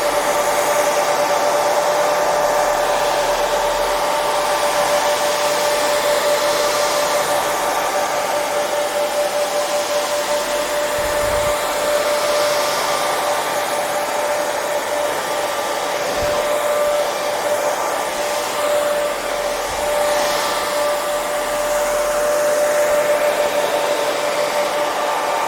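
Hair dryer running steadily: a continuous rush of blown air with a steady motor whine.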